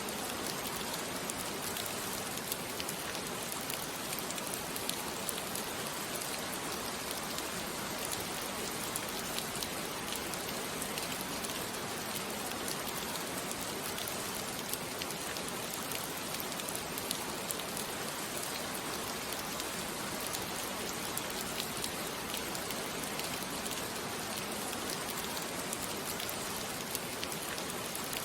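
Steady rain falling on a surface: an even hiss with scattered drops ticking through it.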